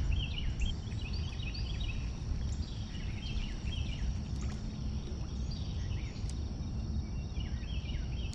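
Several songbirds chirping and singing over and over, against a steady low rumble of outdoor background noise.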